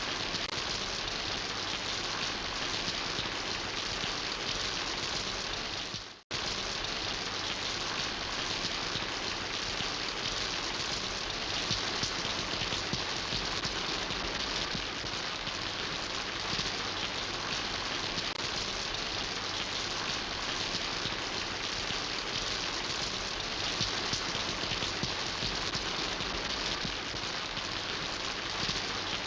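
Steady rain falling, a dense, even patter. About six seconds in, it fades out to silence and cuts straight back in.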